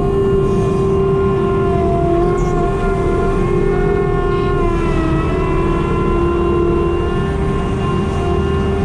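Farm machinery engine running steadily at high revs with a whine. Its pitch sags briefly about halfway through, then recovers.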